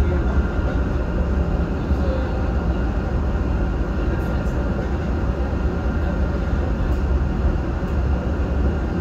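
Steady running noise of a rail car in motion heard from inside: a constant deep rumble with a thin steady whine above it.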